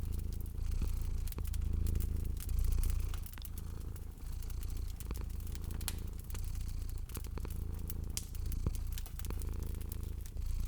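A domestic cat purring, a low rumble that swells and fades with each breath. Over it, a wood fire crackles with scattered sharp pops.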